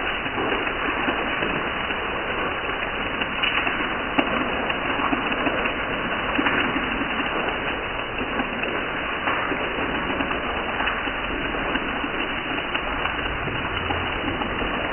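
Heavy rain falling on concrete steps and walls, a steady hiss, with one small click about four seconds in.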